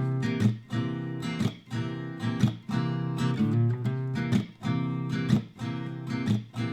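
Background music: a strummed acoustic guitar playing steady chords in a regular rhythm.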